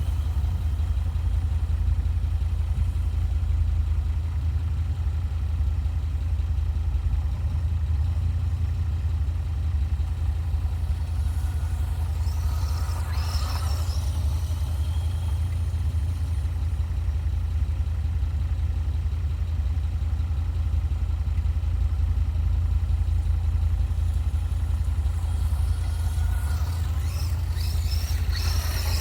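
Whine of a 1/18-scale 4x4 RC truck's small brushed electric motor and gears as it drives, rising and falling in pitch twice, about 12 seconds in and again near the end, over a steady low rumble.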